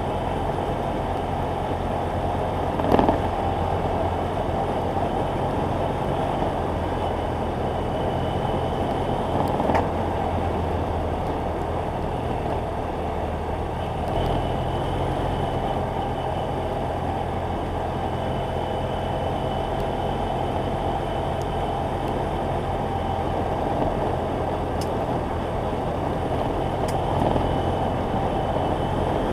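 BMW F800GS parallel-twin engine running at a steady speed under way, with steady wind and road noise and a few short knocks.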